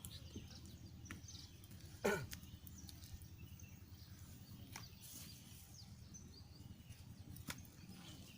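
Faint outdoor ambience with scattered bird chirps and a few light clicks. About two seconds in comes one short, loud sound that slides quickly down in pitch.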